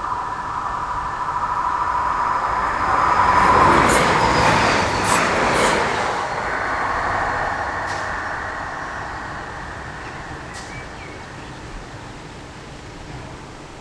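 A passenger train passing over a level crossing. It is loudest about three to six seconds in, with a few sharp clicks from the wheels, then dies away. A steady tone is heard at the start.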